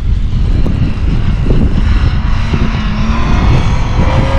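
Mitsubishi Montero SUV engine labouring under high revs as it ploughs through deep snow, its pitch rising near the end, with wind buffeting the microphone.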